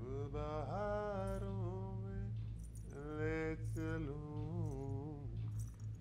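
Background score: a single voice singing a slow, wordless, chant-like melody in two long gliding phrases over a steady low hum.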